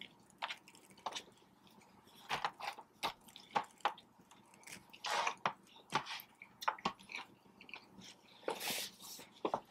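A person chewing and biting food close to the microphone: irregular short mouth clicks with a few longer, louder bursts, about five and nine seconds in.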